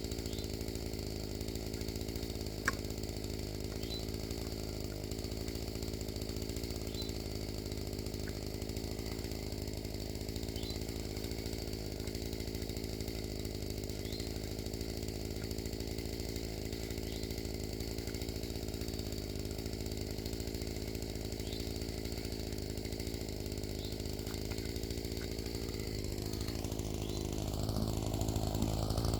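Small gasoline engine running steadily at an even speed, growing louder near the end, with a single sharp click a few seconds in.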